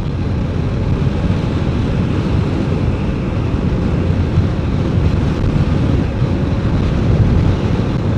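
Steady wind rush buffeting a motorcycle helmet microphone at riding speed, with the BMW K1200RS motorcycle running underneath.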